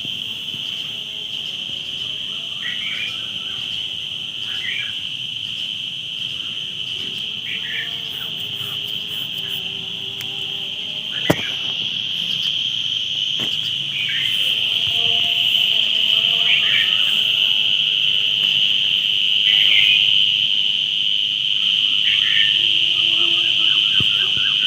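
Steady high-pitched insect chorus that grows louder about halfway through, with short bird chirps scattered over it and one sharp click about eleven seconds in.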